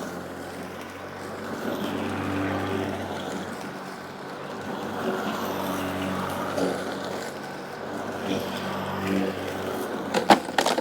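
Snapper battery-powered electric lawn mower running steadily, its motor giving an even pitched hum as it cuts wet grass. A few sharp clicks or knocks come near the end.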